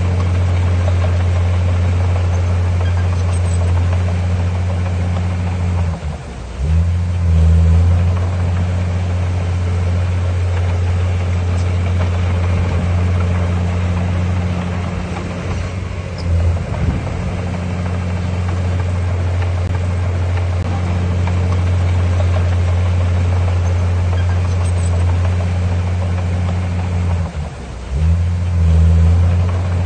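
Heavy diesel engine of earthmoving machinery running steadily under load. It dips briefly three times and comes back louder for a moment after the first and last dips.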